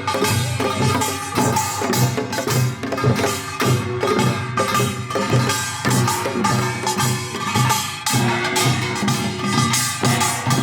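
Percussion-led music: a steady, repeating drum beat under many sharp knocking strokes, played without pause.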